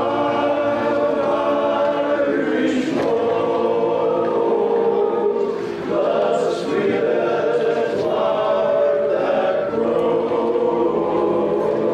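A group of voices singing together in held, choir-like chords, with brief breaks between phrases.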